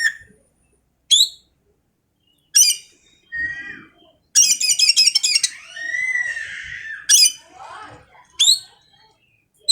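Oriental magpie-robin (kacer) singing in separate phrases: short sharp rising whistles with pauses between them, and a fast rattling trill about four seconds in that runs into a lower warble.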